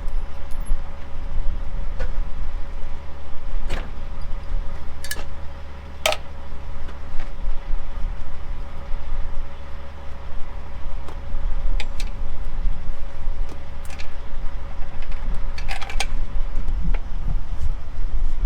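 A steady low rumble with a faint hum that cuts off near the end, and half a dozen scattered sharp metallic clinks and knocks, the sound of hand work on the grain auger's swing-away drive chain and tube.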